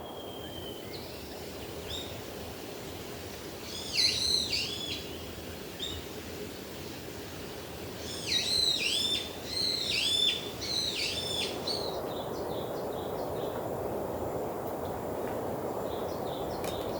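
A songbird singing clear, high, repeated swooping notes: one short phrase about four seconds in, then a longer run of phrases from about eight to eleven seconds, over a steady background hiss.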